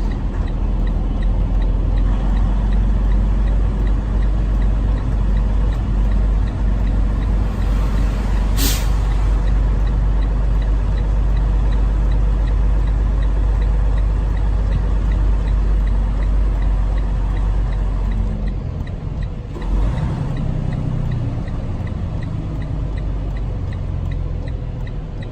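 Semi truck's diesel engine running with a heavy low rumble, with a short, sharp hiss of air about a third of the way in, typical of the air brakes. The engine eases back to a lighter idle about three quarters of the way through.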